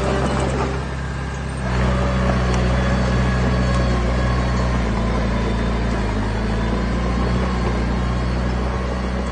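Heavy construction-machine diesel engine running steadily. It dips briefly about a second in, then picks up and holds.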